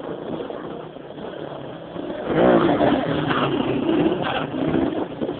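Motorcycle engine revving, getting loud about two seconds in, its pitch swinging up and down.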